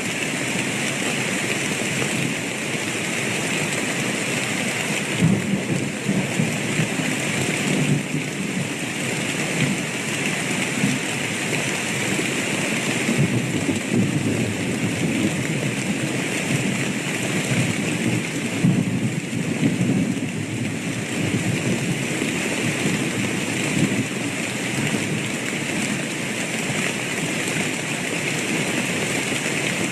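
Steady heavy rain with low rumbles of thunder that swell now and then, most strongly about five seconds in and again near the middle.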